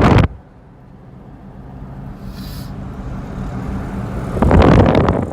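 Loud wind rush on the microphone cuts off abruptly, leaving the low steady hum of a moving vehicle that slowly grows louder; loud wind rush returns about four and a half seconds in.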